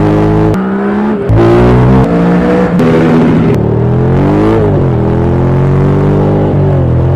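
KTM 125 Duke's single-cylinder four-stroke engine accelerating hard. Its pitch climbs and drops back several times in the first few seconds, as it would when shifting up through the gears, then it holds a steadier note that rises slowly, with a brief dip about two thirds of the way through.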